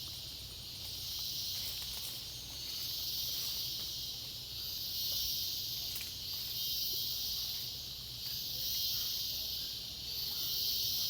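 Rainforest insect chorus: a dense, high buzzing hiss that swells and fades in waves about every two seconds.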